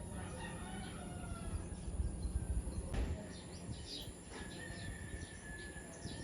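Small birds chirping in short, repeated calls over a low background rumble. The rumble swells briefly about two seconds in, and a thin steady whistle-like tone comes in for the last two seconds.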